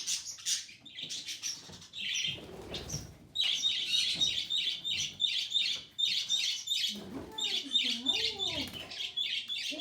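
Baby budgerigar begging for food, a rapid run of high, evenly repeated chirps about three a second, pausing briefly near the middle.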